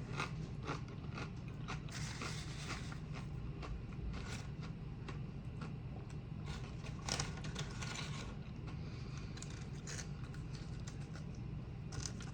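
A utensil scraping and clicking against a takeout food bowl as food is scooped, with scattered soft crackles that cluster a couple of seconds in and again past the middle.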